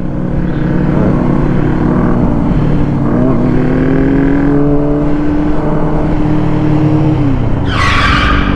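Honda CBR600RR inline-four engine pulling under power, its pitch climbing slowly for several seconds and then falling away about seven seconds in. A short hiss comes near the end.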